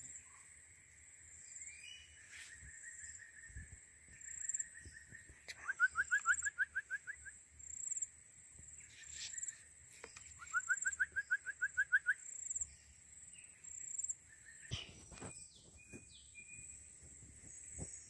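A bird calling twice, each time with a quick run of about ten short rising notes lasting under two seconds, over a steady high-pitched hum in the background.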